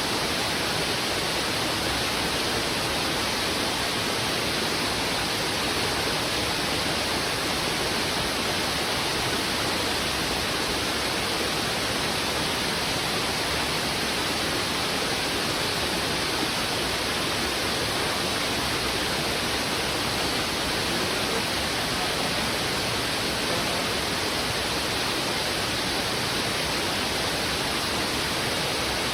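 River water rushing over rocks in a strong current: a steady, dense rush of noise with no change throughout.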